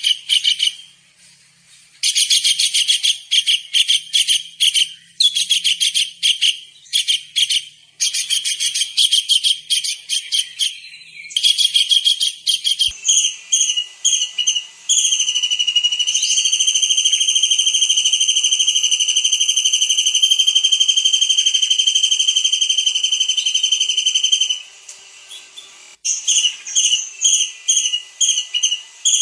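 Kingfisher (tengkek udang) calling in rapid, high, trilled bursts, each a second or two long. From about halfway through, one long steady high whistle is held for about ten seconds, and the trilled bursts come back near the end.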